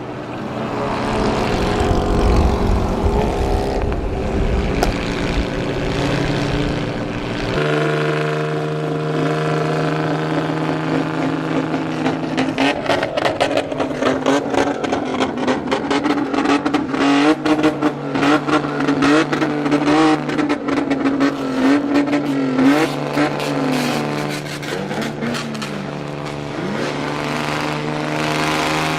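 Loud engine of a modified vehicle with an aftermarket exhaust, revving up and down repeatedly, with many sharp pops through the middle. The sound changes abruptly about eight seconds in.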